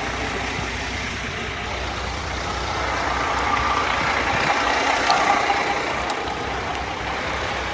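Semi-truck's diesel engine idling with a steady low rumble, under an even hiss that swells slightly midway.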